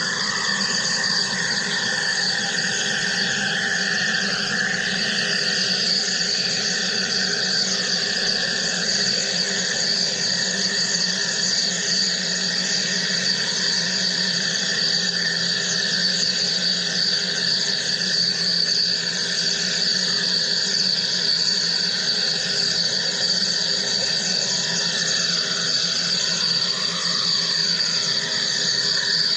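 Wire EDM machine cutting: a steady high-pitched buzz over an even hiss, unchanging.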